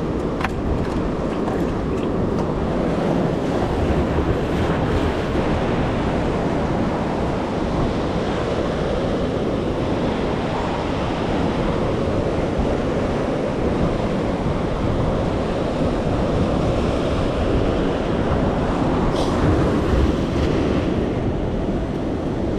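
Steady ocean surf washing against a rock jetty, with wind noise on the microphone.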